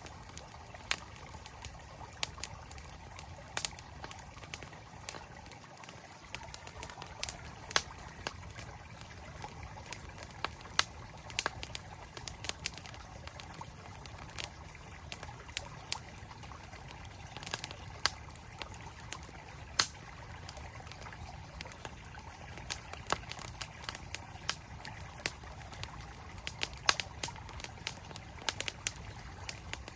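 Campfire crackling, with frequent sharp, irregular pops, over the steady rush of a flowing mountain stream.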